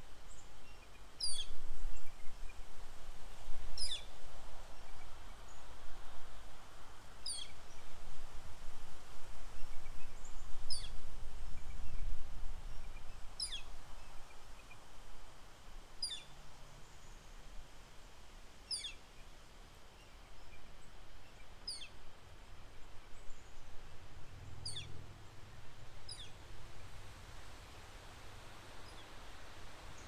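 A small bird repeating a short, sharp, high call note that falls steeply in pitch, about ten times, every two to three seconds. Wind rumbles on the microphone underneath, gustier in the first half.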